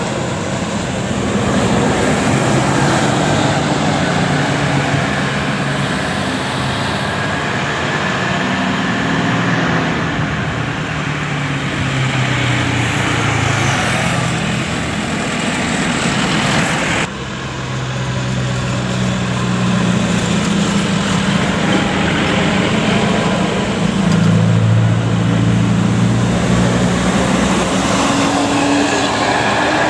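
Road traffic with heavy vehicles: bus and truck engines running over steady road noise, with an abrupt cut about two-thirds of the way through.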